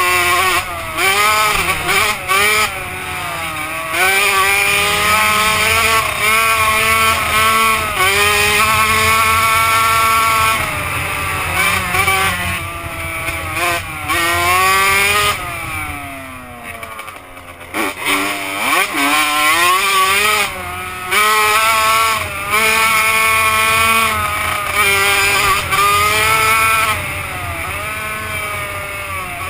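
Two-stroke motocross bike engine revving hard, its pitch climbing and dropping again and again with throttle and gear changes. About halfway through the pitch falls away as the throttle is eased, then climbs once more.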